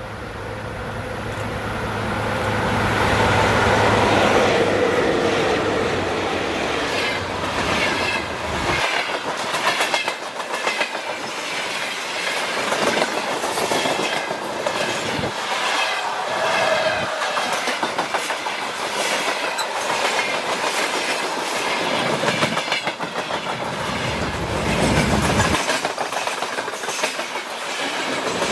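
Freight train passing close by: the locomotive's steady hum swells, is loudest about four seconds in and drops away, then the wagons roll past with a rhythmic clickety-clack of wheels over rail joints.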